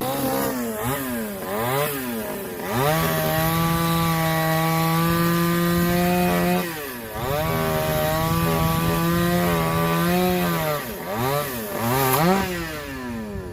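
Two-stroke chainsaw blipped up and down a few times, then held at full throttle while cutting wood for about four seconds. It dips briefly and runs at full throttle again for about three more seconds, then goes back to quick revs that fall away near the end.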